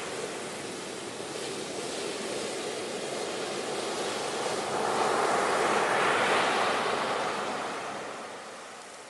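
Ocean surf: a wash of breaking waves that swells to its loudest just past the middle and then ebbs away near the end.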